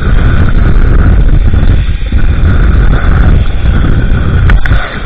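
Loud wind rushing over the microphone on a zipline ride, with the steady whir of the trolley running along the cable. A brief sharp clack comes near the end.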